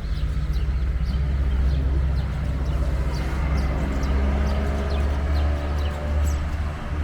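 A motor vehicle's engine running steadily with a low hum, starting suddenly and fading a little near the end, with short high chirps over it.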